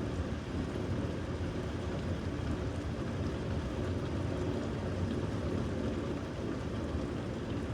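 Steady rain, with a low rumble underneath.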